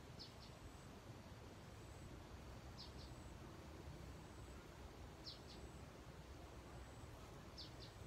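A bird calling faintly four times, each call a pair of short high notes sweeping downward, repeated about every two and a half seconds over a low steady background hum.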